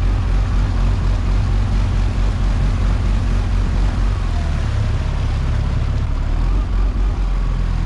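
Outboard motor on an inflatable boat running rough, puttering unevenly for the first few seconds and then settling into a steadier run. It is stalling out and will not go faster than about 5 mph; the owner suspects a failing cylinder.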